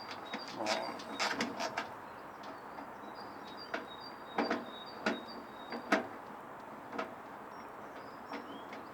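Irregular clicks and knocks of screws and sheet-metal and plastic parts being handled as a microwave's control panel is unscrewed, with faint high chirping in the background.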